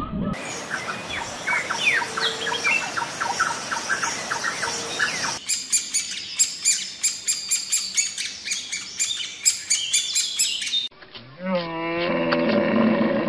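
Birds calling: a string of short chirps, then after a cut a fast run of high, sharp notes, likely the woodpecker's calls. About two seconds before the end comes a deep, drawn-out animal call whose pitch sweeps down at its start and then holds steady.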